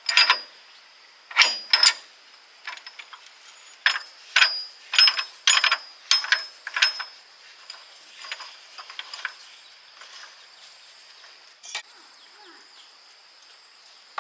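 Sharp metallic clicks and clinks of hand tools and gearbox parts being worked, a quick run of them over the first seven seconds, then only a few scattered ones. A faint steady high-pitched tone sits underneath.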